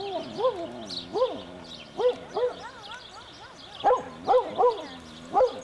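A dog whining and yelping in a series of short cries that rise and fall in pitch, with a quick run of several near the end.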